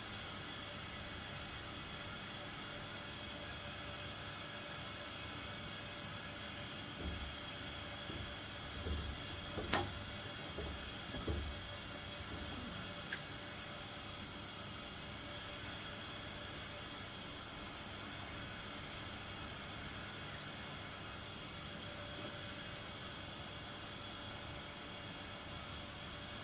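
Steady background hiss, with a few soft knocks and one sharp click about ten seconds in.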